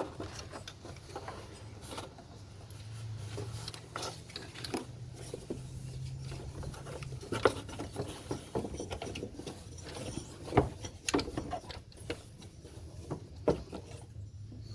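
Irregular clicks and knocks, as of objects being handled, over a steady low hum.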